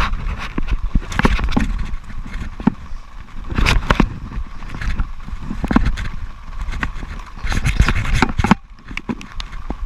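Irregular knocks and scrapes over a steady low rumble of wind on the microphone, with a faint steady tone throughout.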